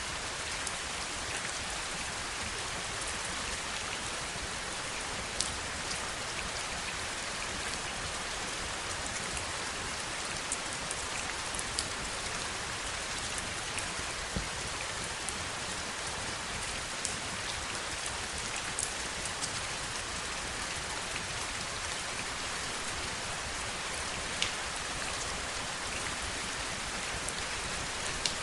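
Heavy rain falling steadily, an even hiss with occasional sharper drop taps standing out from it.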